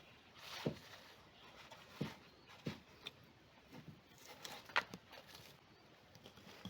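Faint, irregular taps and knocks, about half a dozen spread unevenly, the sharpest near the end.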